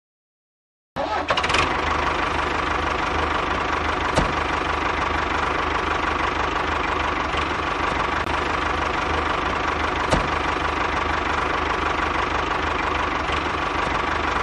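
A motor or engine starts up after about a second of silence and keeps running steadily, with a steady whine over a fast low rattle and a few faint clicks.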